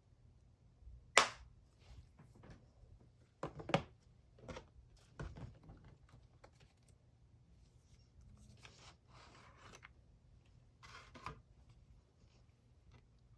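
Handling noises: a sharp click about a second in, then a few smaller clicks and knocks, soft rustling, and more clicks near the end.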